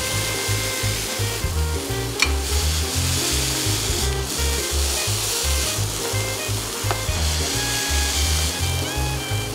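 Hamburger patty sizzling in a cast iron skillet as a metal slotted spatula presses it down, with a sharp metallic click about two seconds in. Background music with a steady bass line plays over it.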